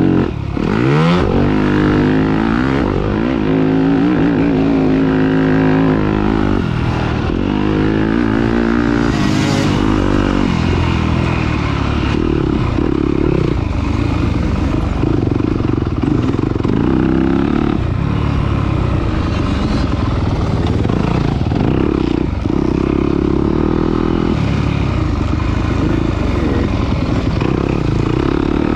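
Dirt bike engine revving hard through the gears, its pitch climbing and dropping again every second or two as the throttle opens and closes.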